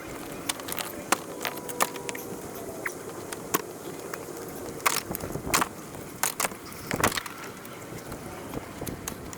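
Irregular knocks and clicks, with several sharper ones about five to seven seconds in.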